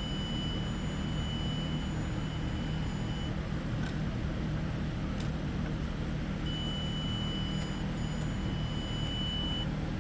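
A steady, high-pitched electronic beep, held for about three seconds, sounds twice, with a brief break in the second one, over a constant low hum and a few faint clicks.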